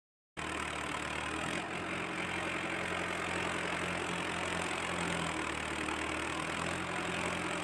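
Tractor diesel engine running steadily at a low idle. It cuts in abruptly about a third of a second in.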